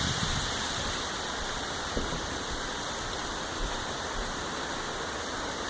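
Heavy rain falling steadily, mixed with the rush of runoff water streaming across the ground, with a faint drip or tick now and then.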